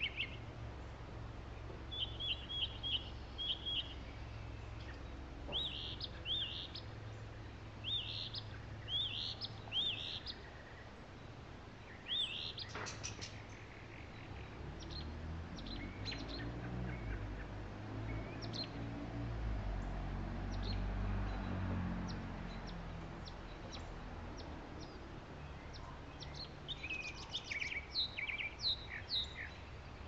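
Small birds chirping, with quick trills and short rising chirps coming in bunches near the start, through the first third and again near the end, over a steady low hum. A low rumble swells and fades through the middle.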